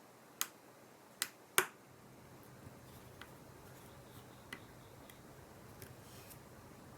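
Sharp clicks of small repair tools and iPhone parts being handled: three loud clicks in the first two seconds, then a few fainter ticks.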